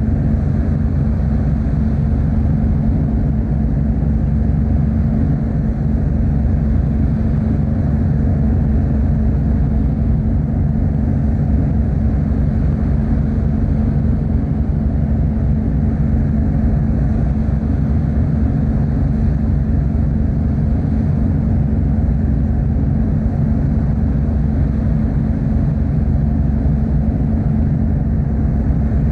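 Steady low drone of the car ferry Kuniga underway, its engines humming evenly with a held low tone and a rushing noise over it.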